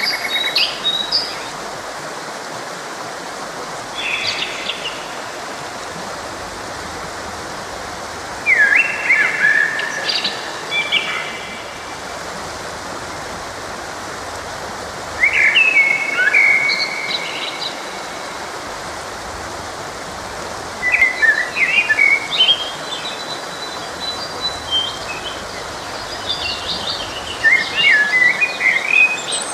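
Songbirds singing in short chirping phrases every few seconds over the steady rush of a flowing forest stream.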